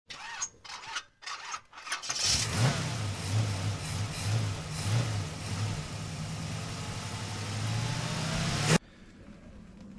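A few short knocks, then a loud, steady machine noise with a low hum underneath that cuts off suddenly near the end.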